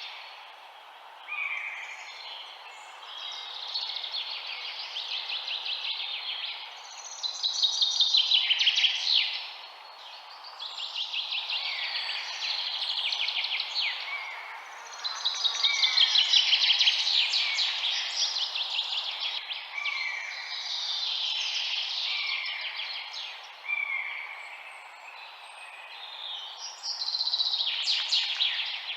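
Birds singing: phrases of fast trills and chirps, one after another every few seconds, over a steady low hiss.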